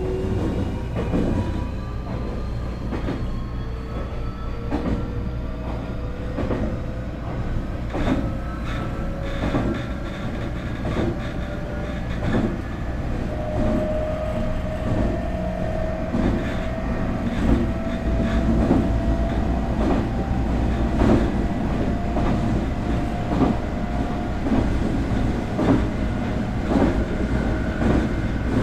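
Nankai 8300 series EMU running: the IGBT VVVF inverter and its fully enclosed induction traction motors give several whining tones that rise slowly in pitch as the train gathers speed. The wheels click over rail joints again and again above a steady rumble.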